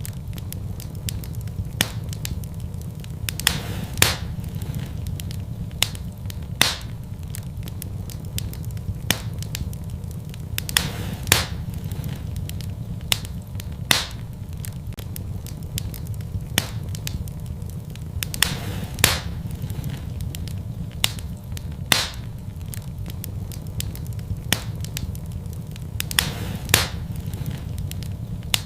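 Fire burning in a fireplace, crackling with sharp pops every second or so, irregularly spaced, over a steady low rumble.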